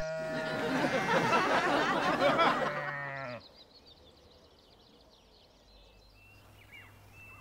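Several sheep bleating at once, their calls overlapping for about three seconds before stopping abruptly. Faint bird chirps follow near the end.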